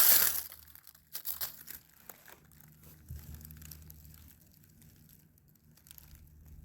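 Dry leaf litter rustling and crackling: a loud crackle at the start and a few shorter ones about a second later, then only faint rustles.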